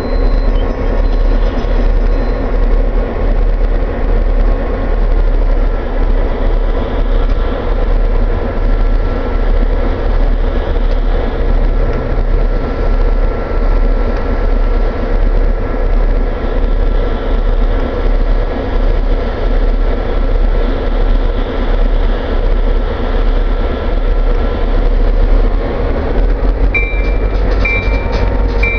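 Freight train of autorack cars behind GP9u diesel locomotives rolling past with a steady, loud rumble. A few short, high wheel squeals come near the end.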